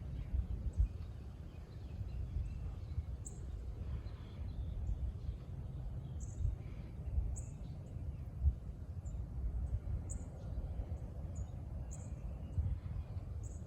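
Wind rumbling on the microphone, with short, high bird chirps repeating about once a second.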